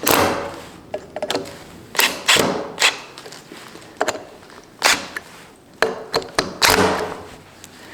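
Heavy hammer blows striking a hand-forged wrought-iron anvil, about six loud strikes at uneven intervals with lighter knocks between, each ringing briefly. The beating is a stress test of the anvil's forge welds and horn.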